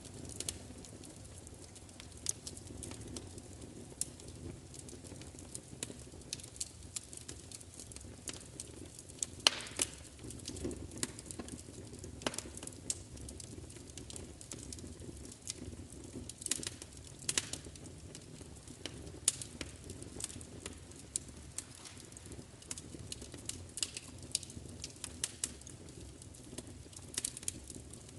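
Wood fire crackling, with irregular sharp pops and snaps over a low steady rumble; the loudest pop comes about nine and a half seconds in.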